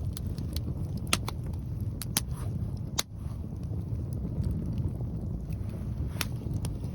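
Wood fire crackling, with a few sharp pops scattered through, over a steady low rumble of wind on the microphone.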